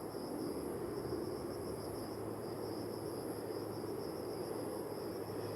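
Insects chirping in a steady, finely pulsing high chorus, over a faint low rumble.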